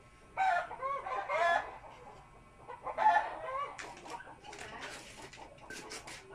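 Bird calls: two loud calls whose pitch bends, near the start and about three seconds in, followed by a run of short clucks.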